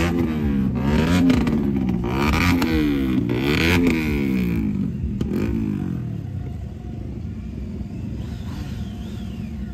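Motorcycle engine revved up and down over and over, about once a second. After about five seconds it drops back to a lower, steady running.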